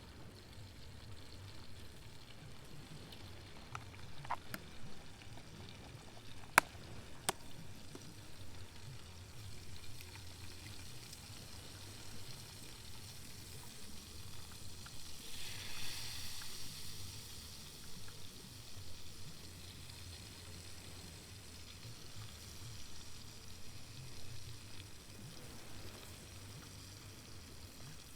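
Steady wind and light rain against a tent, with a low rumble and a swell of hiss about halfway through as a gust comes. A few sharp clicks in the first third, one much louder than the rest.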